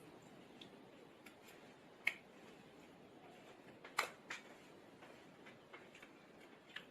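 A few faint, sharp clicks and taps of small tools on a phone's plastic and metal parts as it is being taken apart, the loudest about two and four seconds in.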